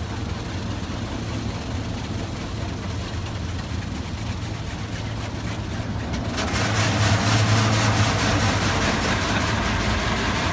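Car engine idling with a steady low hum, heard from inside the cabin in an automatic car wash. About six seconds in, a loud, even rushing hiss starts up around the car, the car wash's water spray coming on.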